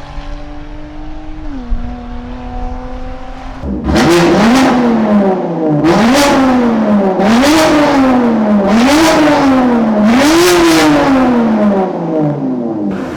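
BMW S55 twin-turbo inline-six on resonated catless downpipes. It runs steadily and drops slightly in pitch, then gets louder and is revved hard about five times in a row, the pitch climbing and falling roughly every second and a half.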